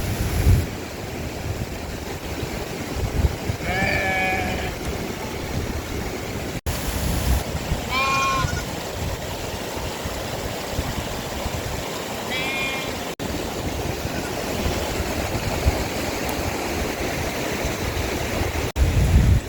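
Mountain stream rushing steadily while sheep bleat three times, a few seconds apart, in short quavering calls.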